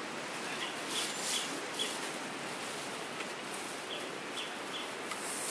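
Short, high bird chirps over a steady outdoor hiss: three chirps about a second in and three more near four seconds.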